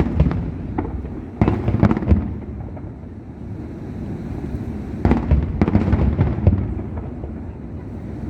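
Aerial fireworks bursting: clusters of sharp bangs at the start, about one and a half to two seconds in, and again from about five to six and a half seconds in, with a low rolling rumble of echoing bursts between them.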